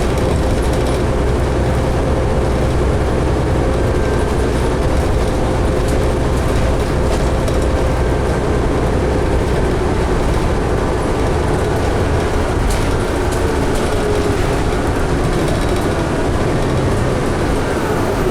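Steady engine and road rumble inside a 2011 New Flyer D60LFR articulated diesel bus under way, with a faint whine whose pitch drifts in the second half.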